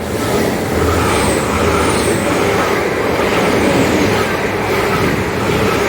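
A GWR Class 802 bi-mode express passing through the station: a loud, steady running noise that swells up sharply at the start and then holds level.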